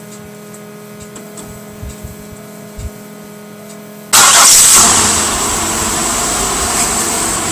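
A 1998 Oldsmobile LSS's 3.8-litre V6 cold-starting by remote starter with the hood closed. About four seconds in, it catches suddenly with a brief flare of revs, then settles to a steady idle.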